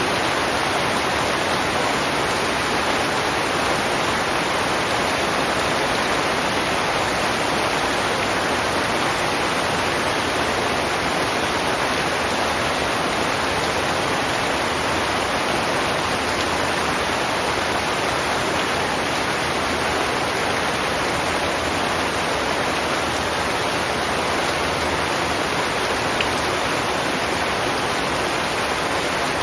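Heavy rain falling steadily, an even unbroken hiss of rain.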